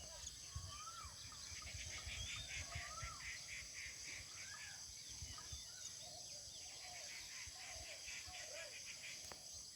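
Faint birdsong outdoors: short rising-and-falling chirps repeated again and again, with a fast run of higher chirps under them, over a low rumble of wind on the microphone.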